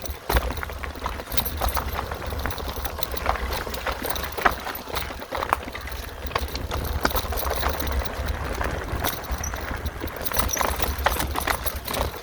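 Mountain bike riding over rough single-track: irregular clattering knocks and rattles as the tyres hit rocks and roots, over a steady low rumble of wind on the microphone.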